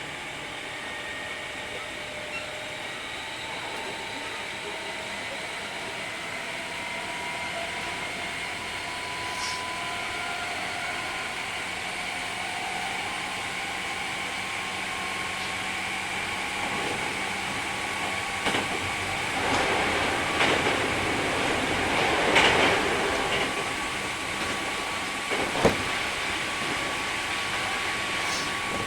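Hankyu 3300 series electric train running, heard from inside the carriage: a steady running noise with thin, slowly drifting whining tones. In the second half the rattle and clatter over the track grows louder, with sharp knocks, one especially loud near the end.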